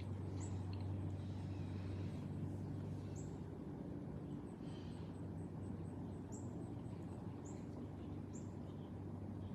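A steady low hum with a handful of brief, high, quickly falling chirps from a bird scattered through it.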